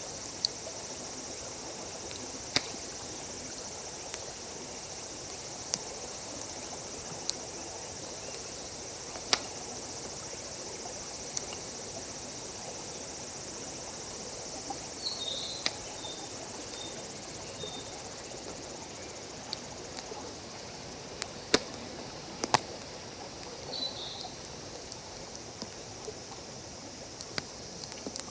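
Wood campfire crackling, with scattered sharp pops at irregular intervals, the loudest two a little over 20 seconds in. Behind it runs a steady high chirring of insects, with a couple of short high chirps.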